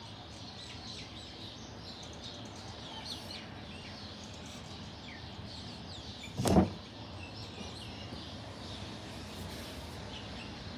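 Outdoor background noise with small birds chirping now and then, and one short loud thump about six and a half seconds in.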